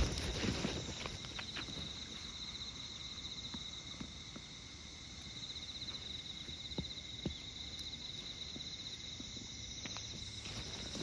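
Insects trilling steadily in a high, fast-pulsing chirr that stops about ten seconds in, with a few faint taps in between.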